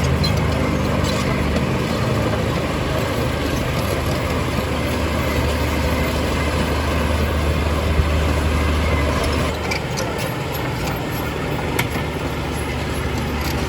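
Heavy diesel earthmoving machinery running steadily with a deep engine hum, with a few sharp knocks. The engine note eases a little near the end.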